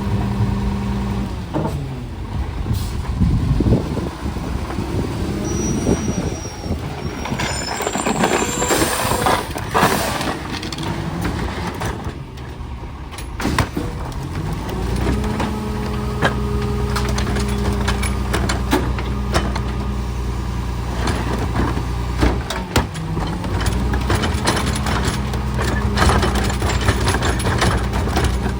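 Garbage truck's diesel engine running, with a loud air-brake hiss about nine seconds in. Around fifteen seconds in the engine speeds up and holds a higher steady speed, with scattered clanks and knocks.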